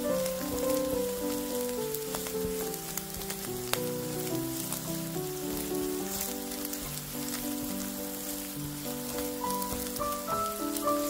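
Diced Spam sizzling in a hot frying pan as it browns, stirred now and then with a silicone spatula, with a few sharp clicks. Background music with single held notes plays underneath.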